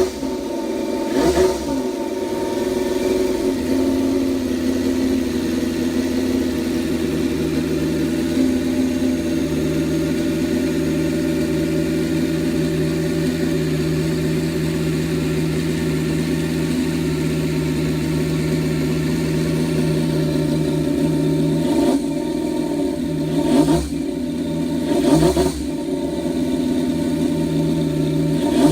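Miniature 125 cc V10 engine running at a steady speed, with short throttle blips about a second in and twice near the end.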